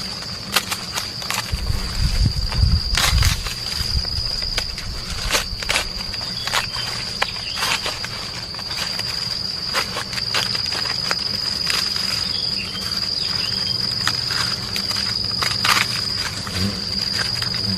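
A steady, high-pitched insect drone, with a low hum of hornets flying close around the microphone. Scattered short clicks and rustles from movement sound throughout, and the low hum is loudest about two to three seconds in.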